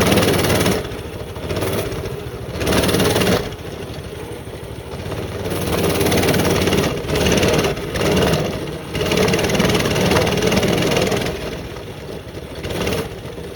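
Small mini bike engine running while being ridden over a bumpy trail, the throttle repeatedly opening and easing off so the engine note rises and falls every second or two.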